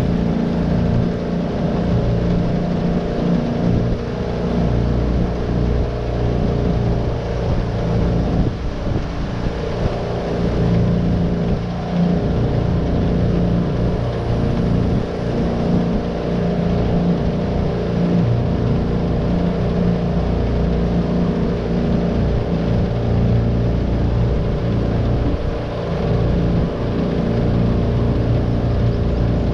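Tohatsu 9.8 hp four-stroke outboard motor running steadily at constant throttle, driving a small V-bottom boat along.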